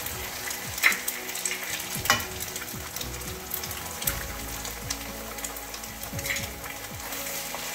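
Eggs frying in hot oil in a wok with sliced chillies, shallots and garlic: a steady sizzle, with a few sharp clicks from the slotted spatula and eggshells against the pan, the loudest about one and two seconds in.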